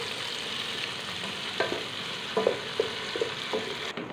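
Tomatoes, browned onions and ginger-garlic paste sizzling as they fry in an aluminium pot while a wooden spoon stirs them, knocking against the pot several times in the second half.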